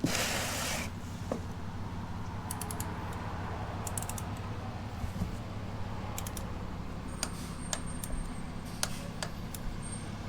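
A torque wrench's ratchet clicking in short runs, tightening the oil drain plug, with a brief rustle at the start.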